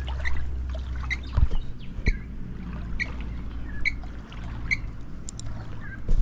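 A bird calling the same short, sharp note over and over, about once a second, over a low steady rumble, with a couple of dull knocks in the first half.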